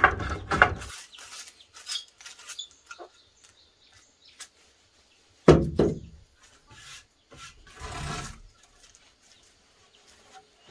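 Wood being smoothed with a hand-made plane in quick rasping strokes that stop about a second in, followed by a few separate wooden knocks and scrapes as the wood is handled.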